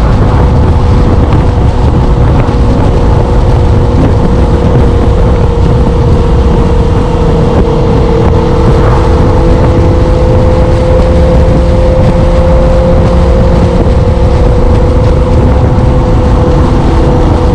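Motorcycle engine running at a steady cruise, its note holding almost level, with loud wind rushing over the microphone.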